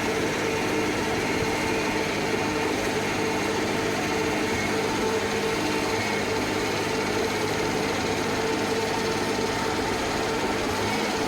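Sierra 6000 logger baler running steadily: a constant machine hum with a few steady tones over a wide noise.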